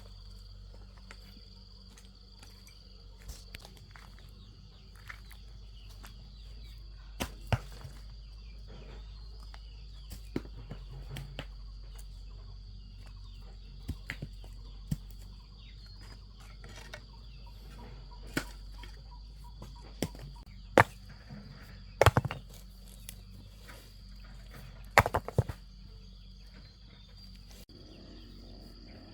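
About a dozen sharp knocks at irregular intervals, the loudest in a cluster about three quarters of the way through, over a steady high insect drone.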